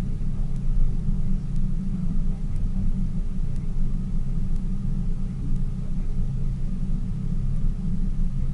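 Tour boat's motor running steadily, a low rumble with no change in speed.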